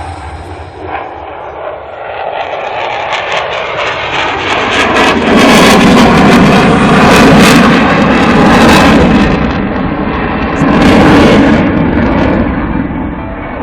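F-16 fighter jet passing low, its jet engine swelling over about five seconds to a loud crackling roar, dipping, peaking again briefly, then easing off.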